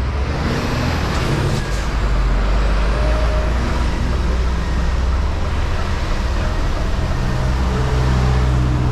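Diesel engine of an articulated lorry running steadily.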